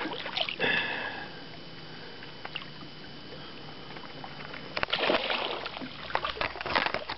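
Water splashing and knocking around a small fishing boat as a pike is handled: a few sharp knocks at the start, a quieter stretch, then a run of quick splashes and knocks near the end.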